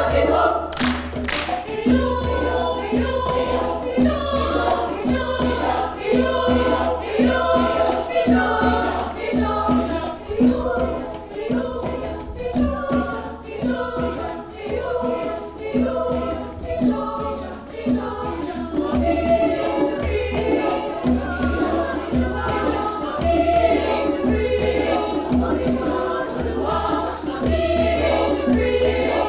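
Community choir singing in harmony, with a steady low beat underneath.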